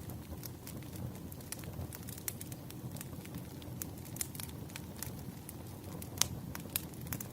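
Firewood burning: irregular sharp crackles and pops over a low, steady rumble of the fire, with a couple of louder pops near the end.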